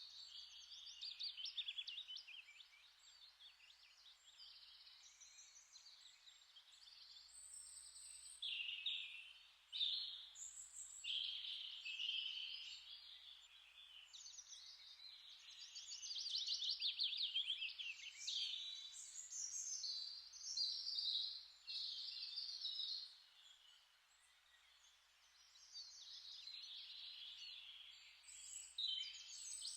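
Small birds singing, a steady stream of rapid chirps and trills that dips into a short lull about three-quarters of the way through.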